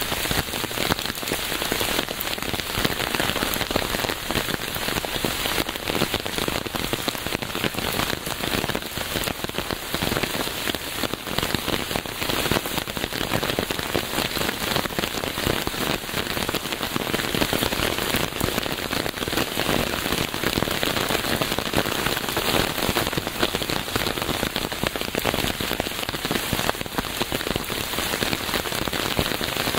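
Steady rain falling on a surface, a dense even patter of many small drops without let-up.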